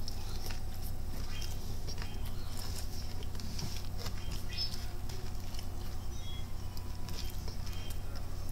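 Close-up chewing of a crispy fried chicken tender (Popeyes ghost pepper): irregular small crunches and clicks from the breading, over a steady low hum.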